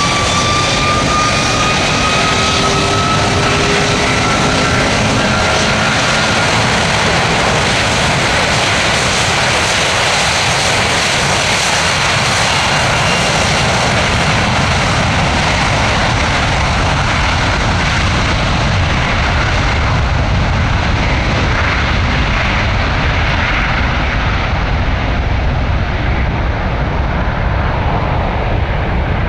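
Airbus A330 freighter's twin jet engines at high thrust: a steady loud roar with a thin whine rising in pitch over the first several seconds. The roar turns duller in the second half as the high end fades away.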